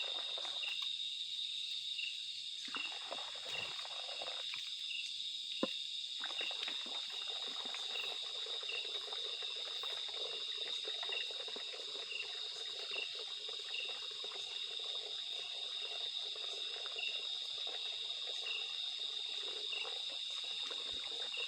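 Insects calling in a steady high-pitched chorus, with a short chirp repeating a little under once a second, over a softer rushing noise that drops out twice in the first few seconds.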